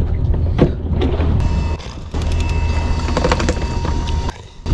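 Fishing boat's engine running with a steady low hum. A steady high-pitched tone sounds over it for about two seconds in the middle. The sound dips briefly twice, near the two-second mark and near the end.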